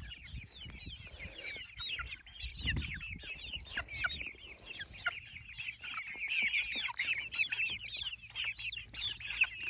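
A flock of chickens clucking and chattering, many short calls overlapping without a break, as they crowd in to get at freshly dug worms.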